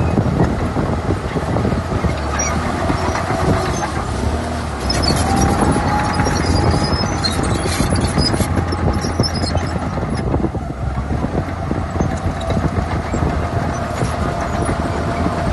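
Heavy earthmoving machinery running at a sand fill: steady diesel engine noise with metallic squealing and squeaks through the middle.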